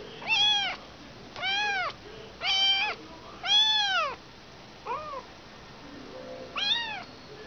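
A kitten meowing repeatedly, about six high-pitched calls roughly a second apart, each rising then falling in pitch, one near five seconds in shorter and quieter. The kitten has lost its mother, and these are the calls of a motherless kitten crying.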